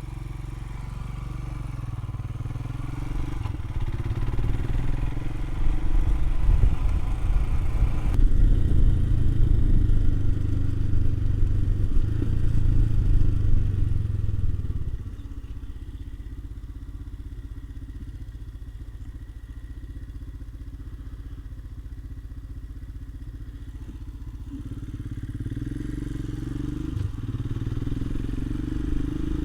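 Royal Enfield Himalayan's single-cylinder engine on the move: it builds in level as the bike pulls away, drops suddenly about halfway through as the throttle eases, then runs evenly and builds again near the end.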